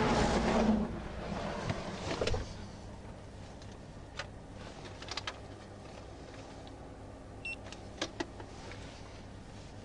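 Rushing wind and traffic noise that cuts off about two and a half seconds in, leaving the low steady hum of an idling vehicle with a few faint clicks.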